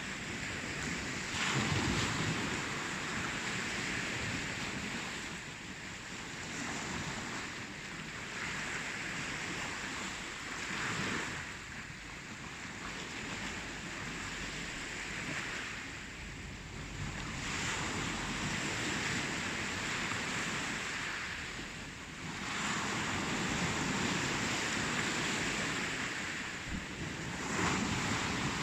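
Ocean surf washing onto the shore, a steady rush that swells and eases with each wave every five or six seconds.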